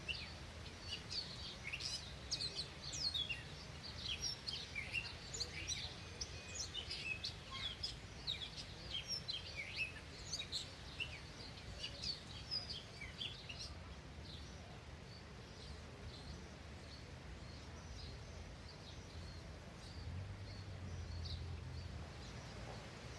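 Many small birds chirping, a busy chatter of short calls for the first half that thins to scattered chirps later, over a steady low background rumble.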